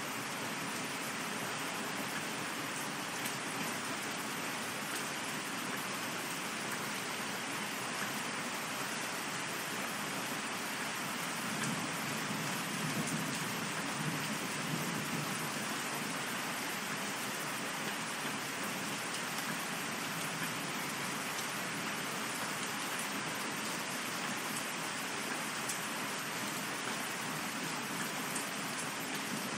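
Steady rain falling, an even hiss of drops, with a low rumble of thunder swelling softly about twelve seconds in and fading a few seconds later.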